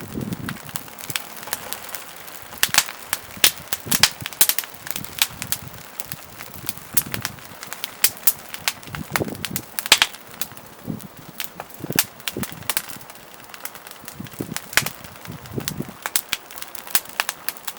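Wood fire crackling in a small fire stand, with many irregular sharp pops and snaps and a few soft low thuds.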